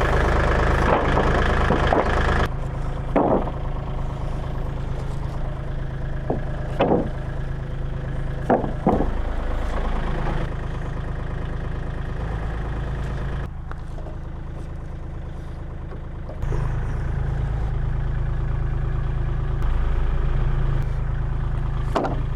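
An engine running steadily at idle with a few short knocks and clanks over it. It drops quieter for a few seconds in the middle, then comes back up.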